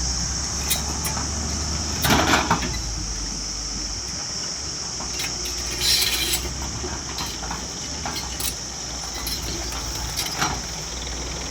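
Low steady rumble of a tractor engine under a constant high hiss, with a few sharp knocks, the loudest about two seconds in and another about six seconds in.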